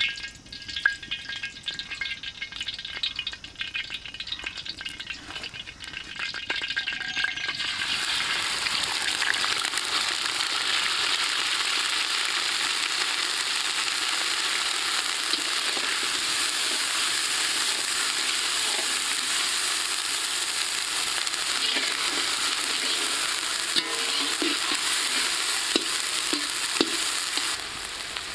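Hot oil in an iron kadai sizzling as food fries in it: lighter crackling and pops at first, then, about seven seconds in, a sudden jump to a loud, steady sizzle as more goes into the oil, with a few sharp clicks near the end.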